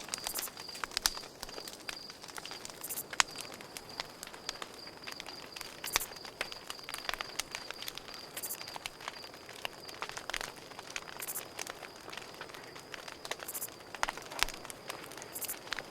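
Campfire burning with irregular crackles and sharp pops, over the steady, high, pulsing chirp of crickets.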